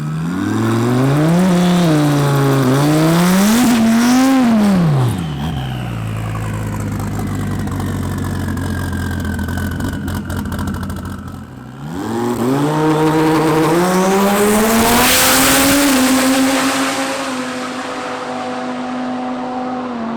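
Dodge Viper's twin-turbo V10 revving hard: its pitch rises and falls several times, then settles lower and steadier. About twelve seconds in it climbs again and holds at high revs.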